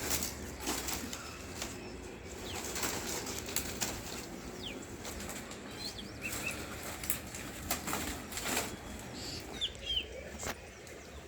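Scattered brief rustles and knocks at irregular intervals, with a few short, high bird chirps.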